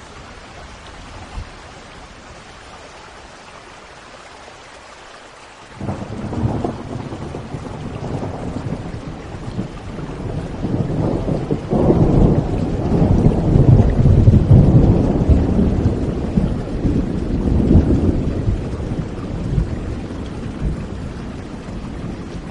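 Steady rain with a long roll of thunder that breaks in sharply about a quarter of the way through, swells to its loudest past the middle, and slowly rumbles away near the end.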